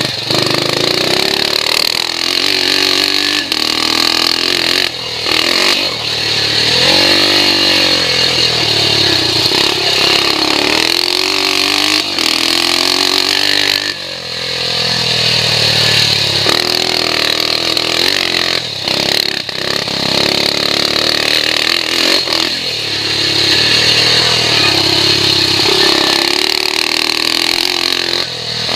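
A BSA C15's 250 cc single-cylinder four-stroke engine revving hard under way. Its pitch climbs and falls again and again as the rider works the throttle and gears, with a brief drop about halfway through.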